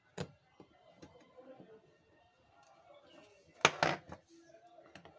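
A few sharp clicks over faint background voices, the loudest being two clicks in quick succession about three and a half seconds in.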